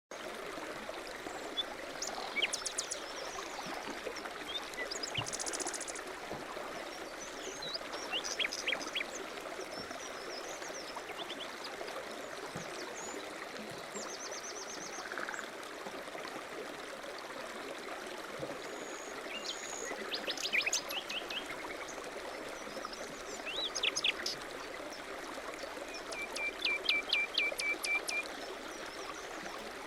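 Steady running water with small birds chirping and trilling at intervals over it.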